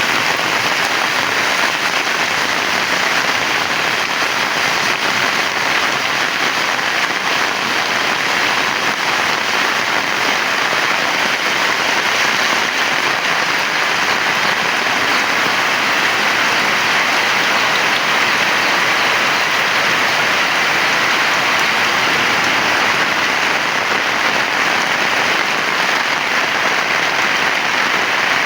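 Heavy rain falling in a steady, dense hiss, even throughout with no thunder or separate knocks.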